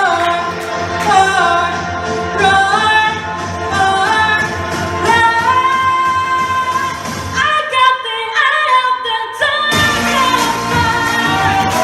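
Female voices singing a pop song over music. The low accompaniment drops away for about two seconds in the middle, leaving mostly the voices, then comes back in fully.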